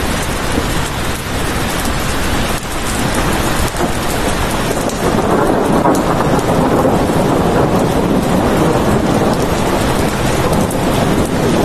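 Steady heavy rain. About halfway through, a deeper low rumble swells up under it and carries on.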